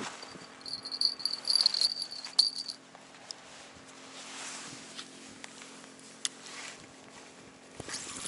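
Small bite-alarm bell on a bottom fishing rod jingling for about two seconds, shaken by a fish pulling at the line.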